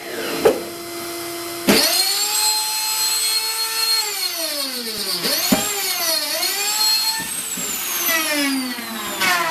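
Electric router running and cutting a circle, its motor whine starting at the beginning, getting louder about two seconds in, and dipping and recovering in pitch several times as the bit loads up.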